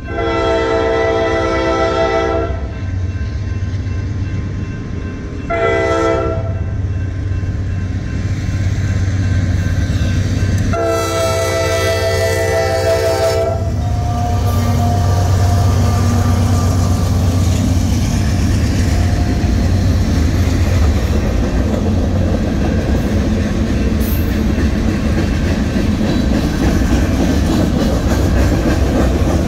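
Norfolk Southern diesel freight locomotive sounding its multi-note air horn for a grade crossing: a long blast, a short one, and a final long blast. Then the locomotive passes close with its engine rumbling, followed by the steady rolling clatter of tank cars and hopper cars over the rails.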